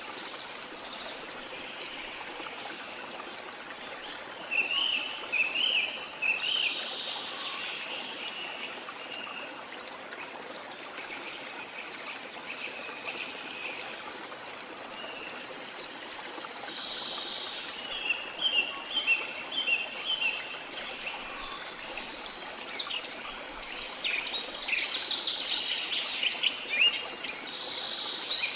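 Steady rush of a rainforest waterfall, with birds chirping over it: a short run of quick high notes about five seconds in, more around eighteen seconds, and a busier stretch of song near the end.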